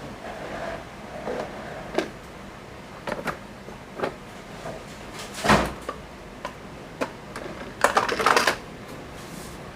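Hard plastic toy vehicles being handled and set down: scattered clicks and knocks, a louder knock about five and a half seconds in, and a short clattering rattle near the end.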